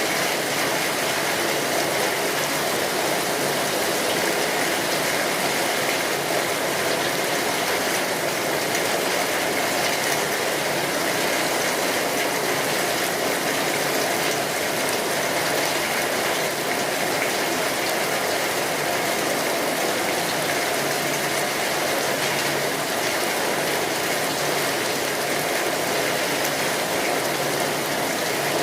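Steady rainfall, an even hiss that holds without pauses or separate drops standing out.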